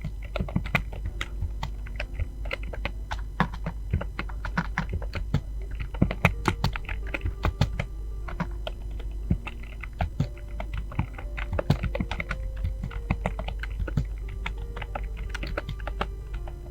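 Fast, irregular typing on a computer keyboard, key clicks coming in quick runs, with faint background music of held notes underneath.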